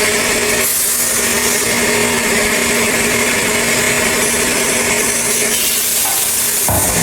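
A power saw or grinder cutting granite: a steady, loud grinding hiss with a constant hum underneath, shifting slightly about a second in and again near the end.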